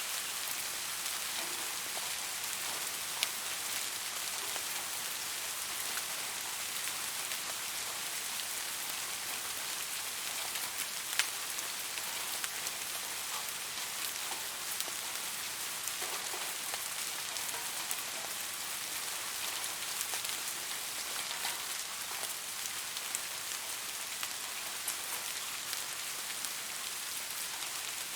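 Steady rain falling on a surface, an even hiss with occasional sharper drop ticks, the loudest about 11 seconds in.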